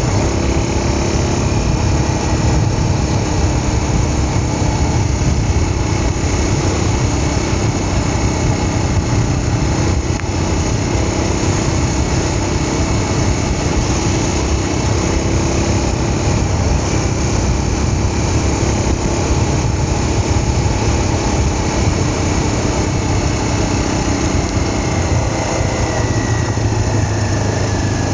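A small vehicle engine running steadily under way, with its pitch dropping slightly near the end.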